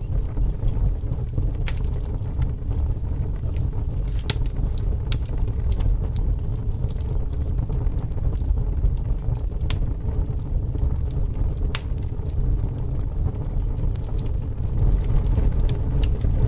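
Campfire crackling, with sharp pops at irregular intervals over a steady low rumble.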